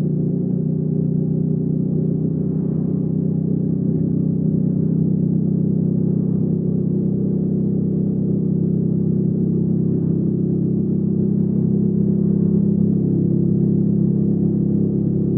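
Hyosung GV300S's V-twin engine running at a steady pace, its pitch holding nearly constant.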